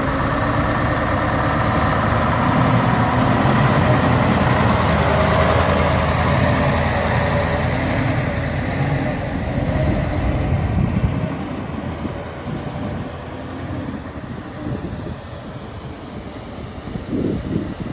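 Heavy diesel construction machinery running: a loud engine with a low rumble for about the first ten seconds, then falling away to a quieter running sound.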